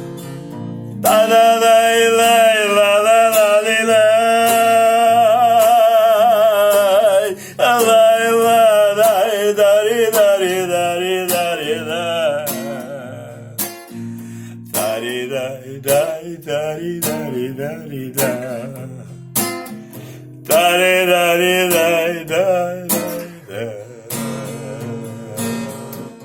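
Acoustic guitar strummed in a Gypsy romance, with a singing voice holding long, wavering notes without words: one long stretch starting about a second in, and a shorter one about twenty seconds in. The guitar plays alone in between.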